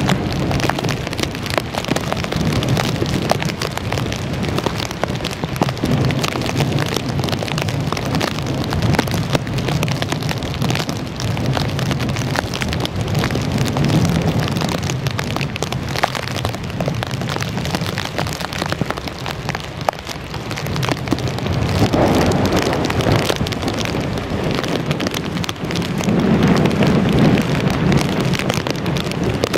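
Hurricane Irene's rain and wind in a steady loud rush, with a dense patter and a low rumble that swells and eases several times.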